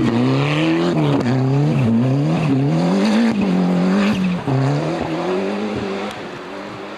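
Rally car engine revving hard, its pitch rising and dropping repeatedly with gear changes and throttle lifts through the corners, then fading away as the car drives off.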